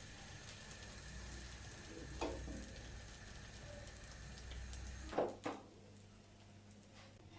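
Food frying faintly in a pan, with a steady low hum, a knock about 2 seconds in and two louder clatters a little past 5 seconds, at which point the hum cuts off.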